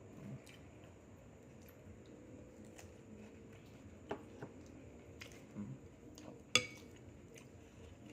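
A few sharp clinks and knocks of dishes and cutlery during a meal, the loudest about six and a half seconds in, over low room noise.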